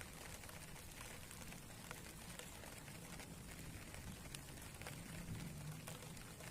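Rain falling steadily, an even hiss with scattered individual drops ticking.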